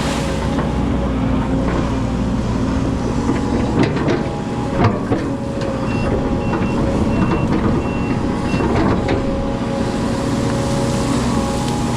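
Hydraulic excavator's diesel engine running steadily under work, with a few sharp clanks a little before the middle. In the second half a warning beeper sounds a run of short beeps, about two a second, for a few seconds.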